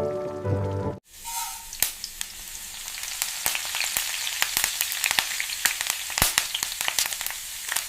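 Food frying in hot oil in a pan: a steady sizzle with many sharp crackles and pops. It comes in suddenly about a second in, replacing soft piano music.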